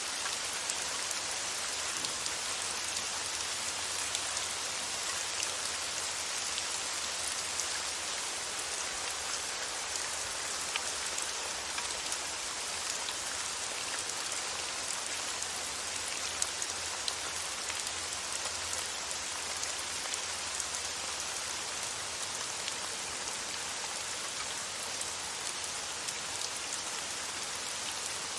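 Steady rain falling: an even, continuous hiss of rainfall with scattered small drop ticks.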